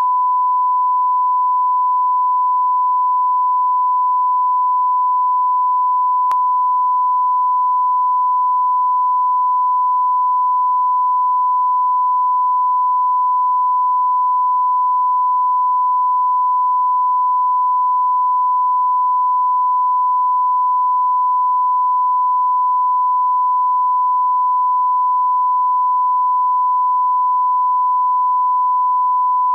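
Steady 1 kHz line-up test tone, the broadcast reference tone played with colour bars at the head of a TV programme tape, holding one unchanging pitch and level. One faint click about six seconds in.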